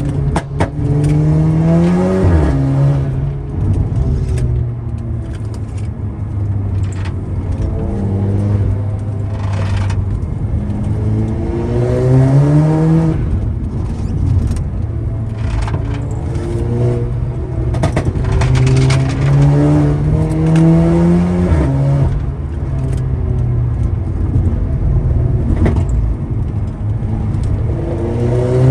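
Tuned Audi TT's turbocharged engine pulling hard: its pitch climbs under acceleration and drops back at each upshift, several times over, with short steadier stretches between the pulls.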